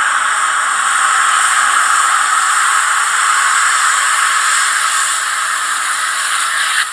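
Sound decoder of a TT-scale BR 106 diesel shunter model playing a loud, steady hiss through its small loudspeaker, which cuts off abruptly near the end.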